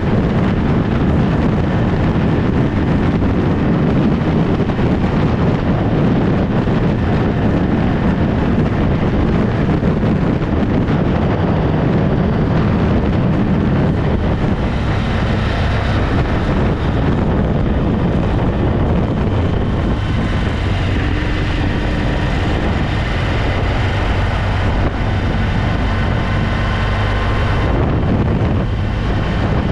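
Adventure motorcycle's engine running steadily while riding, with wind buffeting the microphone.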